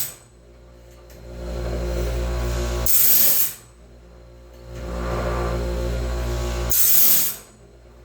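DIY bandsaw-band sharpener's grinding stone working through the band tooth by tooth, in a cycle of about four seconds: a steady motor hum swells, a short bright hiss of stone on steel as a tooth is ground, twice (about three and seven seconds in), then a dip in level before the next tooth.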